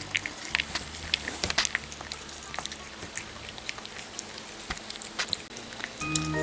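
Old Norwegian Forest Cat eating, an irregular run of small chewing clicks.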